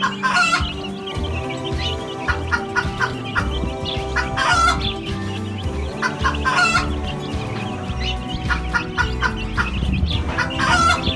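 Chickens clucking, with a rooster crowing several times.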